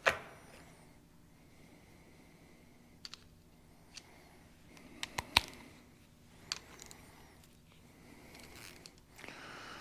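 Scattered sharp clicks and taps of hand tools and small parts being handled while a diesel injection pump is taken apart, the loudest about five seconds in.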